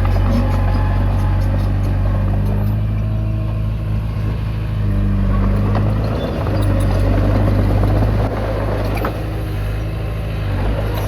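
Komatsu D20P bulldozer's diesel engine running steadily under working load, its note shifting slightly and easing about eight seconds in, with a few sharp metallic clanks.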